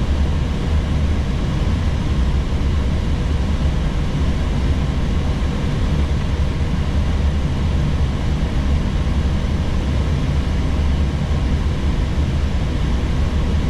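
Steady flight-deck noise of an Airbus A321neo on final approach: a deep, even rumble of engines and airflow with a hiss over it, unchanging throughout.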